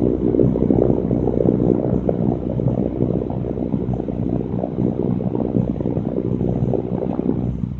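Electric fan running, its airflow hitting the microphone as a rough, rumbling wind noise over a steady low motor hum, easing a little near the end.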